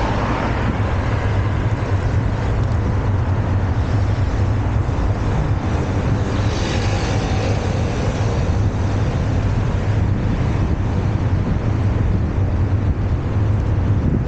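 Steady wind rumble on the microphone while cycling along a city street, with road traffic going by; a louder rush, like a passing vehicle, comes about halfway through.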